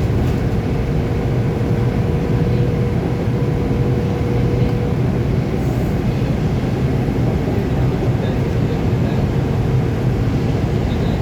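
Scania K280UB4 city bus running along the road, heard from inside: a steady low engine and road rumble, with a faint steady whine that fades out about five seconds in.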